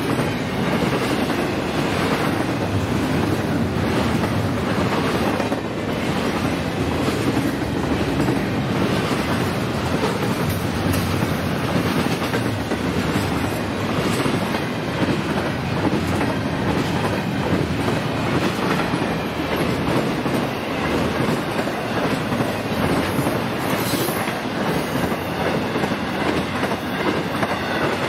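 Florida East Coast freight train's cars rolling past steadily on the rails, with a continuous noise of wheels on track.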